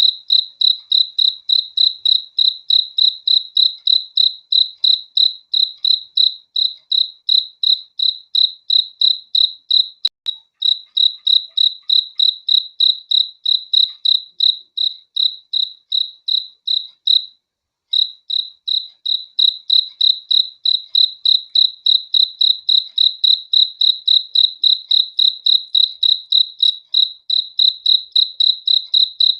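A cricket chirping steadily on one high pitch, about three chirps a second, pausing briefly twice.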